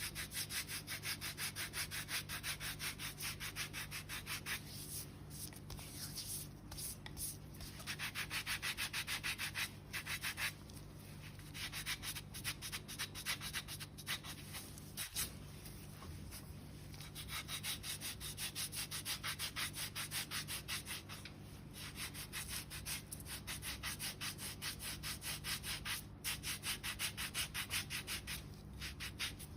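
A foot file rasping dry dead skin and calluses on the sole in rapid back-and-forth strokes. The strokes come in runs with short pauses between them.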